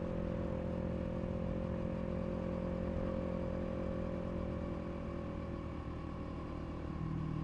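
KTM RC390 single-cylinder engine running at steady revs while riding, the note easing slightly lower midway and changing about seven seconds in.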